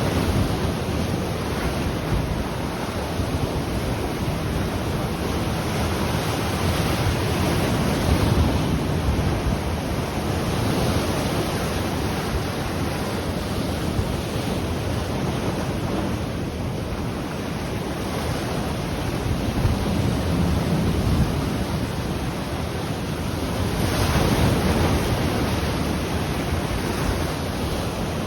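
Ocean waves breaking and washing on the shore, a steady surf with gentle swells, one a little stronger near the end, with wind buffeting the microphone.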